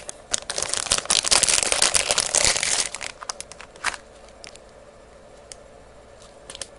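Crinkling, rustling handling noise as the desoldering braid is handled, dense for the first three seconds, then a few sharp clicks before it settles.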